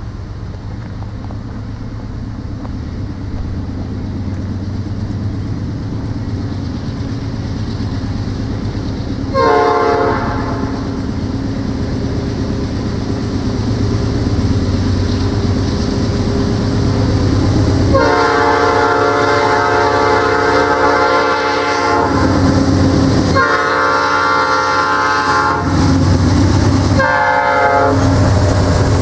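An approaching diesel locomotive sounding its multi-chime air horn over a low engine rumble that grows steadily louder. One short blast comes about a third of the way in. Later comes the grade-crossing pattern of long, long, short, long blasts.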